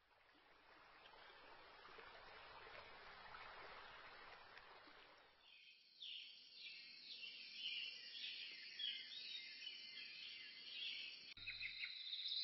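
Faint hiss for the first few seconds, then from about halfway a run of faint, quick, high bird chirps that grow louder toward the end.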